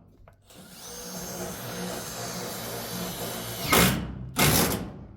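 Power drill running steadily for about three seconds with a faint high whine, during metal roofing work; then two short, loud bursts of noise.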